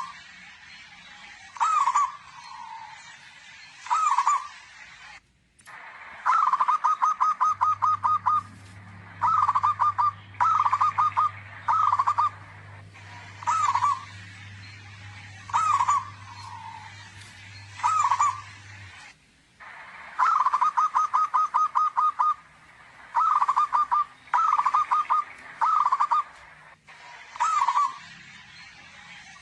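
Zebra dove (perkutut) calling loudly. Single short coos come every couple of seconds, mixed with runs of rapid, evenly spaced coo notes at one pitch.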